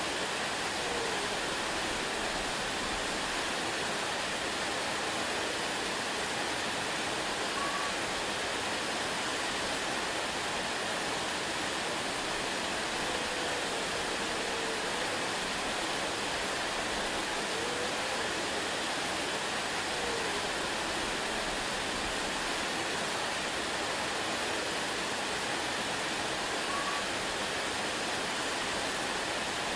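Waterfall: a steady, unbroken rush of falling water, with a few faint short chirps now and then.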